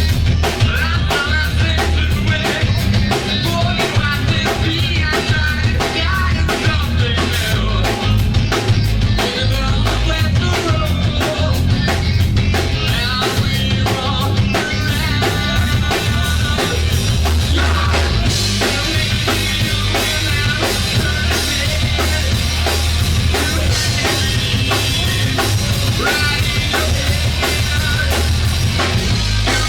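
Live rock band playing loudly: drum kit, electric guitar and bass, with a steady driving beat.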